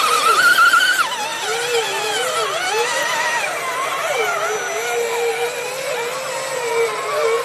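Electric motor and gear whine of a radio-controlled scale trail truck, rising and falling in pitch with the throttle as it crawls. The pitch is high at first and drops about a second in.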